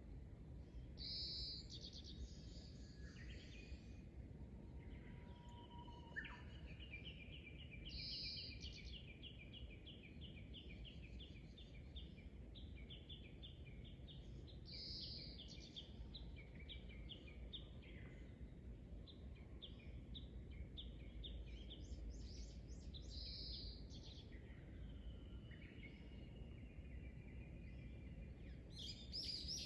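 Birds singing, one repeating a short, bright phrase about every seven seconds between runs of quick chirping notes, over a steady low rumble of outdoor background noise.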